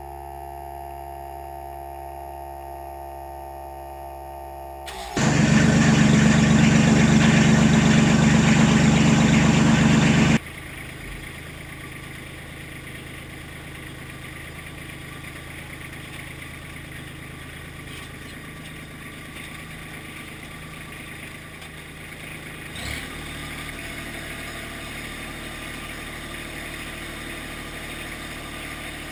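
Kubota B2620 tractor's three-cylinder diesel cranking loudly for about five seconds, then cutting to a steady idle, over the steady hum of a 12-volt exhaust extractor blower.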